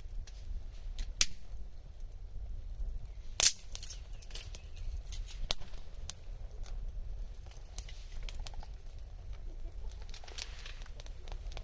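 Wood fire crackling in a fire pit, with irregular snaps and pops over a low steady rumble. The sharpest pop comes about three and a half seconds in.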